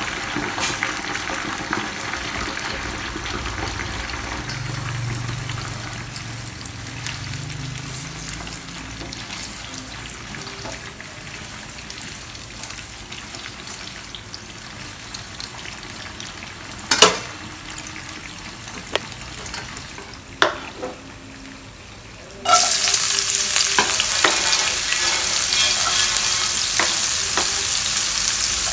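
Eggplant pieces frying in a small nonstick pot, stirred with a silicone spatula, with two sharp knocks of the spatula against the pan past the middle. Then, from a sudden cut, sliced shallots, garlic and chilies sizzle loudly in hot oil in a wok.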